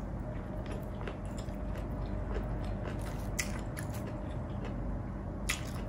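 Close-miked mukbang eating sounds: a person chewing and biting food, with small mouth clicks and two sharper crunchy clicks about three and a half and five and a half seconds in, over a steady low hum.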